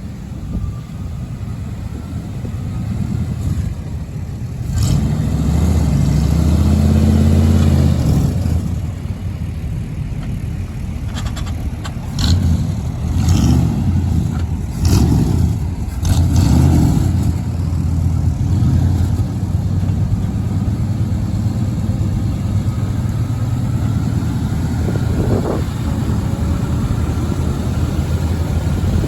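Old Chevy 350 small-block V8 in a 3/4-ton pickup running, its revs rising for a few seconds about five seconds in, then several short bursts of throttle around the middle before it settles back to a steady run.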